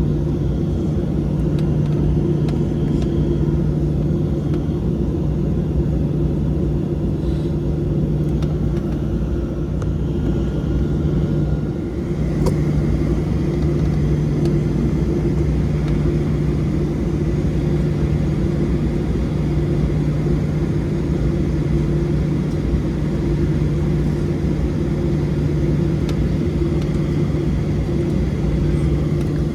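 Steady cabin drone of a Boeing 737-700 in flight: its CFM56-7B jet engines and the airflow past the fuselage, an even rumble with a constant low hum in it.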